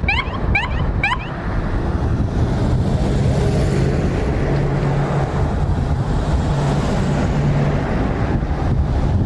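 An engine running steadily under heavy wind noise on the microphone, its low hum wavering in pitch, with three short rising chirps in the first second.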